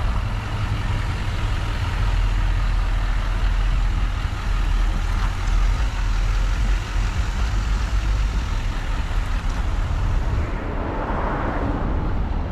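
Steady motor-vehicle noise, engine and road rumble with a heavy low end, easing off slightly near the end.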